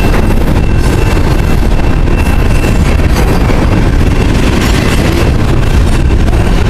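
Freight train rolling past at close range: a steady, loud rumble of wheels on rail with no break, and a faint thin high whine running over it.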